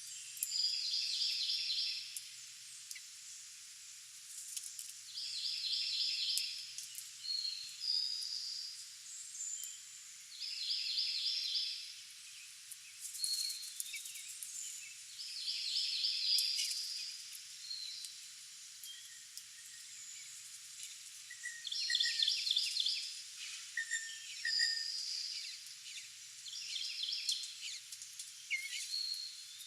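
A songbird repeating a short, rapid trilled song phrase of about a second, roughly every five seconds, with brief high whistled notes in between.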